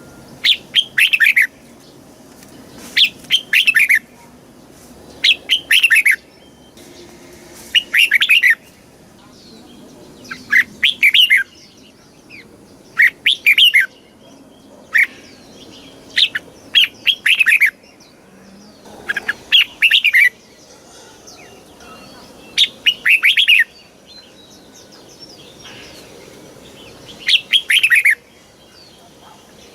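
Red-whiskered bulbul singing short, loud, warbling phrases, each about a second long, repeated roughly every two seconds with brief pauses between them.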